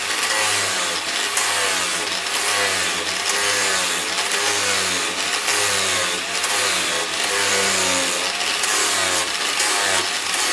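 A motor running under a loud steady hiss, its pitch dipping and rising again and again.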